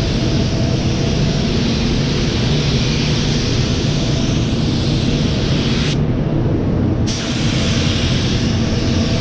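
Air spray gun spraying clear coat onto a headlight lens: a steady hiss over a low hum. The hiss cuts out for about a second near the two-thirds mark, as the trigger is released, then resumes.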